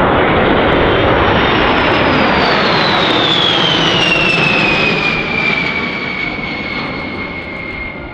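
Boeing B-52H Stratofortress's eight Pratt & Whitney TF33 turbofan engines in a low, fast flyby: loud jet noise with a high whine that drops in pitch as the bomber passes, about three seconds in, then the sound slowly fades as it moves away.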